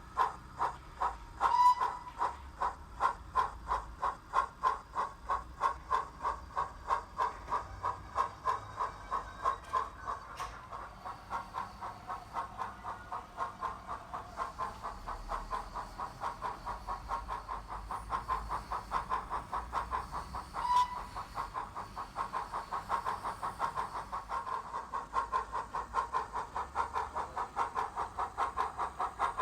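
Digital steam-locomotive sound of an LSWR Drummond 700 Class 0-6-0, played by a Zimo MX644D sound decoder through a small 40 x 20 mm speaker in a Bachmann C Class model locomotive: rhythmic exhaust chuffs with hiss, coming faster as the engine gets under way. Two short, louder tones stand out, one about two seconds in and one about two-thirds of the way through.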